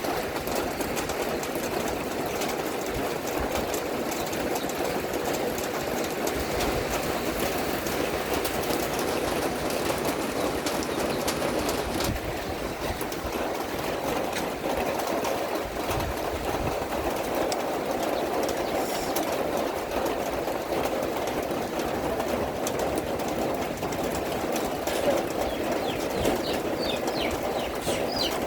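Steady rain falling, an even rushing hiss that holds throughout, with a few small birds chirping near the end.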